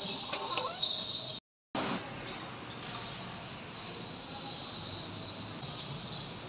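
Small birds chirping over and over in a reverberant room with steady background noise; the sound drops out for a moment about a second and a half in.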